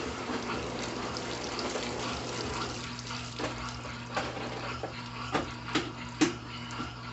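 Brastemp Intelligent 7 kg washing machine running, water rushing and splashing in its tub over a steady low hum. A few sharp clicks come in the second half.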